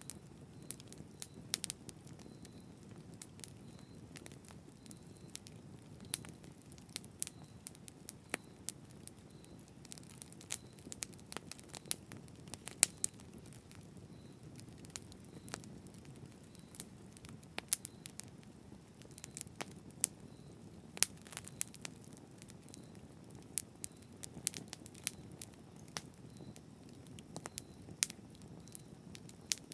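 Campfire burning: a steady low rush of flame with frequent irregular sharp crackles and pops from the burning wood.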